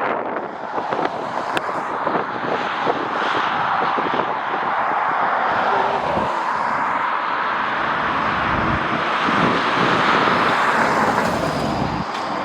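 Jet airliner engines running with a steady roar, while wind gusts buffet the microphone with irregular low rumbles.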